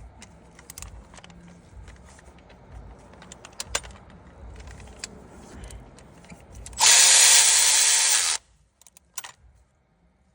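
Scattered light metal clicks of tools and parts, then a cordless power tool runs for about a second and a half, driving bolts in snug.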